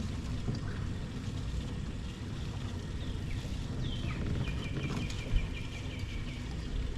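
A bird calling over a steady low outdoor rumble: a single falling high note about four seconds in, then a quick run of repeated short chirps lasting about two seconds.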